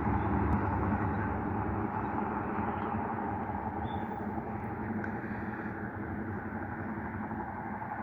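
Steady road noise of a car driving, a low rumble with tyre hiss, easing off slightly over the seconds.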